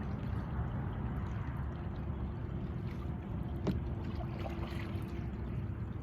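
Water splashing and trickling around a small modular kayak on the water, over a steady low rumble, with one sharp knock a little past the middle.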